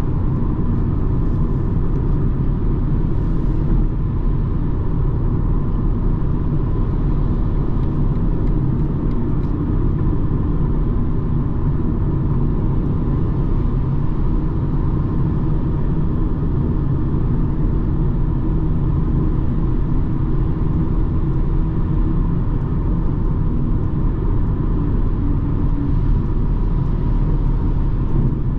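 BMW 220d xDrive Gran Coupe's four-cylinder diesel driving at a steady speed: a constant low rumble of engine and road noise that neither rises nor falls, with a faint steady whine above it.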